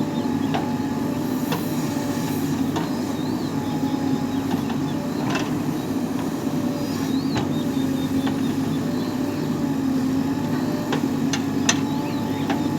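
Heavy diesel engine running steadily at a constant pitch, with scattered sharp clicks and knocks on top.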